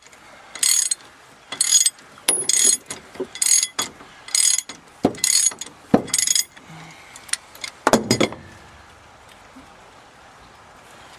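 A 3/4-inch drive ratchet with a half-inch adapter clicking in short bursts, about one a second, as a snug fastener is worked. After about seven strokes it stops, and there is a single knock near eight seconds in.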